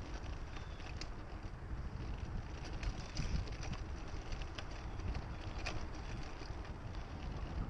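Mountain bike riding on a dirt trail: wind buffeting the microphone and the tyres rumbling over the ground, with scattered sharp clicks and rattles from the bike over bumps.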